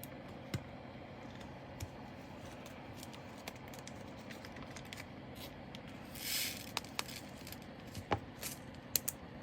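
Scattered light clicks and taps of small plastic items, with a brief rustling rattle about six seconds in, as leftover diamond-painting drills are handled and bagged.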